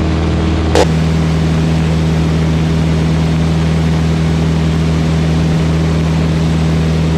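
Van's RV-8's piston engine and propeller droning steadily at climb power, about 2400 RPM, heard in the cockpit. A short click comes about a second in, after which the pitch pattern of the drone changes slightly.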